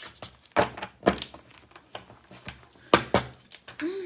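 A few sharp taps and knocks from objects being handled on a tabletop, four louder ones among lighter clicks. Near the end a woman starts humming one steady note.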